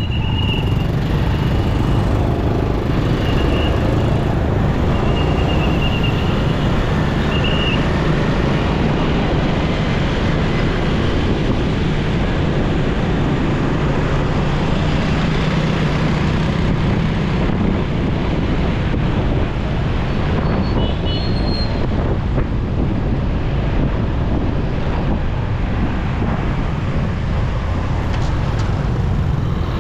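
Steady engine and road noise of a motorcycle riding through city traffic, with a few short, faint high tones in the first eight seconds.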